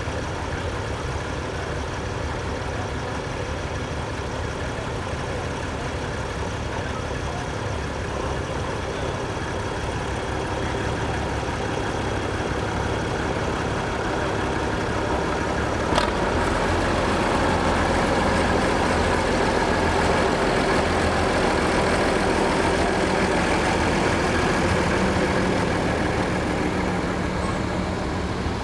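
Antique tractor engines running steadily as they roll past. The sound grows louder through the middle and eases off near the end, with one sharp click about halfway.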